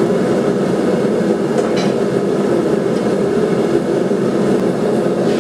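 Forge running: a loud, steady rushing noise from the burner heating the stock, with no hammer blows.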